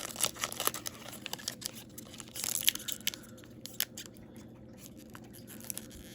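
A trading-card pack wrapper being torn open by hand, with sharp crinkling and tearing of the wrapper. The sounds are busiest in the first few seconds and then turn sparser and softer.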